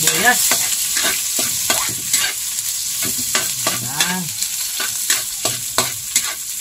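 Ginger, garlic and onion sautéing in hot oil in a metal wok: a steady sizzle with repeated scrapes and taps of a utensil stirring against the pan, about two or three a second.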